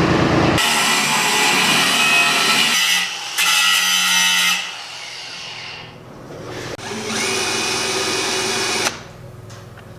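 Electric power tool, like a drill, running in three bursts with a steady high whine. The first two bursts come close together, and a longer one comes later, cutting off near the end.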